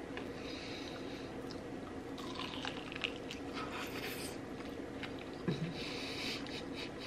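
Close-miked chewing and wet mouth sounds of a person eating, in several short bursts with a couple of sharp clicks, over a steady low hum.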